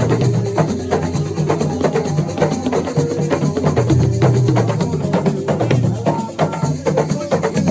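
Assiko band playing: drums and other percussion beat a fast, dense rhythm under a melody line.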